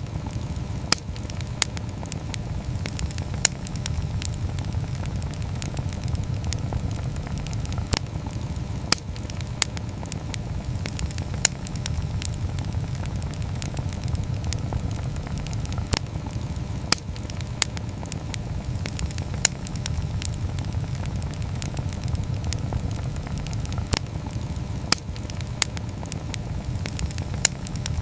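Wood campfire burning: a steady low rumble with frequent sharp, irregular pops and crackles.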